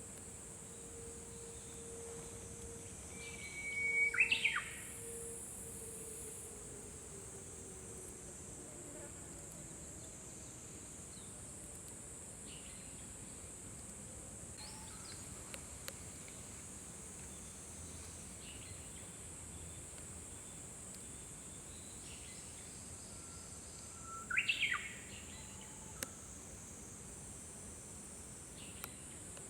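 Japanese bush warbler singing its 'hoo-hokekyo' song twice, about twenty seconds apart: each a held whistle that breaks into a quick sweeping flourish. A steady high-pitched hiss runs underneath.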